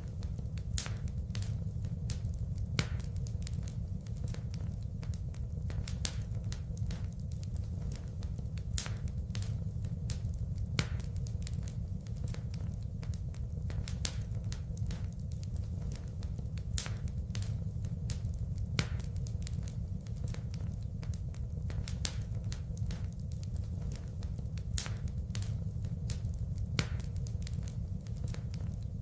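Wood fire crackling, with frequent irregular sharp pops and snaps, some louder than others, over a steady low rumble.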